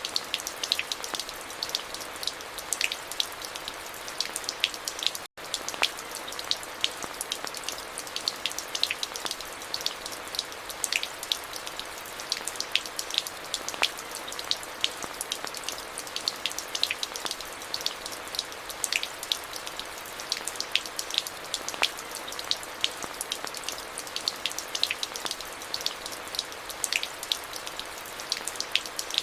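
Steady rain: a constant hiss dotted with many sharp ticks of individual drops. The sound cuts out completely for an instant about five seconds in.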